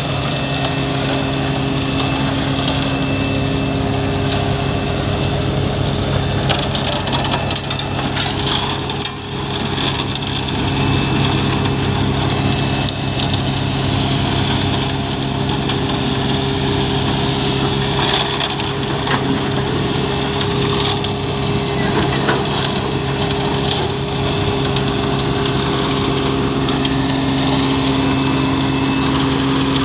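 Concrete mixer truck's diesel engine running steadily, with gritty scraping and rattling of concrete material being loaded over it.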